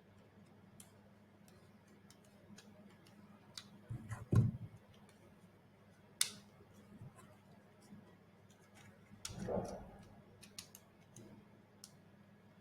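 Small screwdriver tightening screws that mount a servo motor into a plastic part: scattered light clicks and ticks, with a louder knock about four seconds in and a short rustle of handling near the end.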